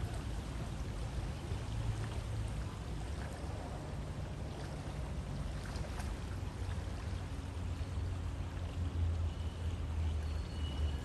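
River water flowing steadily, a continuous rushing and gurgling with most of its weight low.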